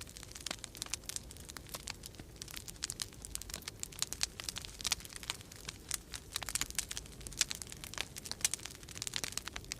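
Wood fire crackling in a fireplace: a dense, irregular stream of sharp pops and snaps, over a low steady rumble of storm wind.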